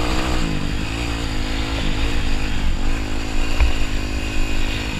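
Dirt bike engine running as it is ridden, its pitch rising and falling with the throttle and gear changes. There is a single short knock about three and a half seconds in.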